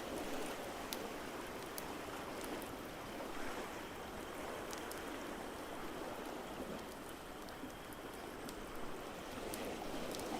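A steady wash of ocean surf, swelling gently, with sparse small crackles and pops from a wood fire over it.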